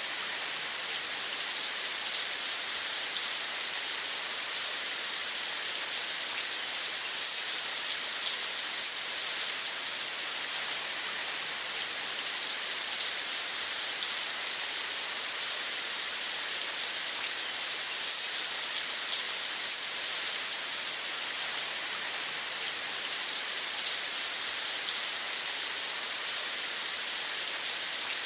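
Steady rain falling: an even, high-pitched hiss of many small drops that does not change.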